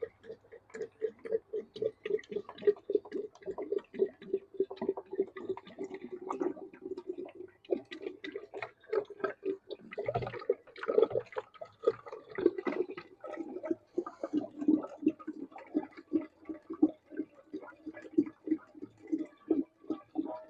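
Hydraulic fluid glugging as it is poured from a container into the tractor's hydraulic fill. The glugs come quickly and regularly, a few a second, and go on throughout.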